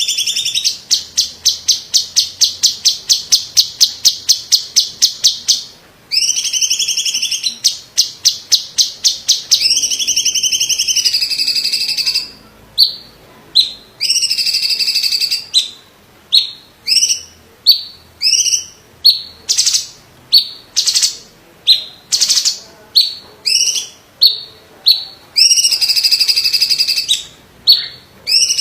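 Cucak ijo (green leafbird) of the 'cungkok' type singing loudly. Long runs of sharp repeated notes, about five a second, alternate with sustained buzzy trilled phrases, then single sharp notes spaced out near the end.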